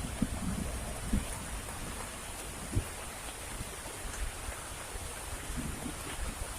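Heavy rain falling steadily, with scattered low thuds, the sharpest about three seconds in.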